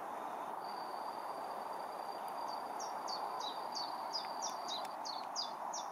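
A songbird sings a run of short, high, downward-slurred notes, about two or three a second, starting a couple of seconds in. A thin, steady, high whistle runs beneath the song from just after the start until near the end. Both sit over a steady outdoor background hiss.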